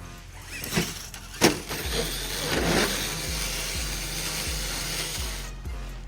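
Traxxas TRX-4 RC truck bashing: two sharp knocks about a second apart, the second the loudest, then a few seconds of rough gear whirring and scrabbling from its drivetrain and tyres. Background music with a steady beat plays underneath.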